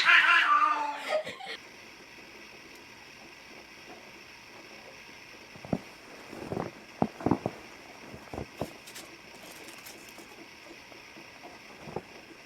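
A cat's loud, wavering yowl, cut off about a second and a half in. Then a faint steady hiss with a few scattered knocks and taps.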